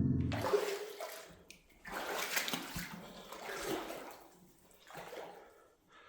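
Boots wading through shallow water in a flooded mine tunnel, four splashing strides about a second and a half apart.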